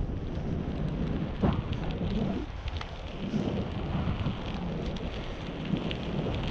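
Wind buffeting an action camera's built-in microphone while riding a bicycle: a dense low rumble, with a sharp knock about a second and a half in.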